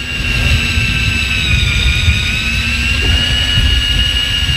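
Fishing boat's engine running steadily: a low rumble under a constant high-pitched whine, with wind buffeting the microphone.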